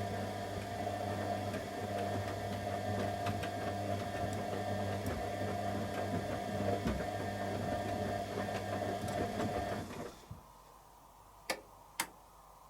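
Candy Aquamatic 100F washing machine's motor turning the drum during the heated wash: a steady hum with small irregular knocks from the load. It stops abruptly about ten seconds in, and two sharp clicks follow near the end.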